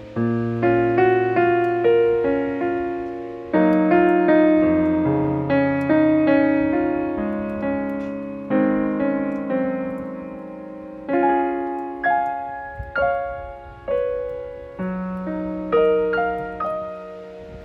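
Solo piano music: slow chords and melody notes struck every second or two, each one ringing and fading away.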